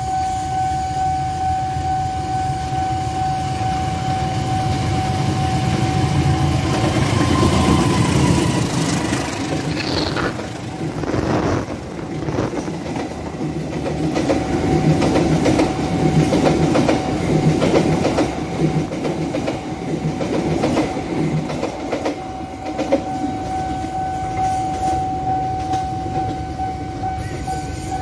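A passenger train approaches and passes at speed. Its locomotive's rumble builds over the first ten seconds, then the wheels click over the rail joints as the coaches go by. A level-crossing warning alarm holds a steady tone throughout, drowned out only while the train is passing.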